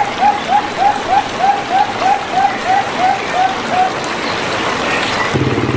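Zebra dove (perkutut) giving a rapid run of about a dozen short cooing notes, about three a second, that fade out about four seconds in, over a steady hiss. A low hum starts near the end.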